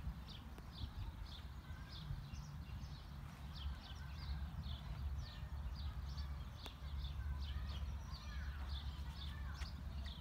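Small birds chirping, short high calls repeating about twice a second, over a low steady rumble that grows a little louder in the second half.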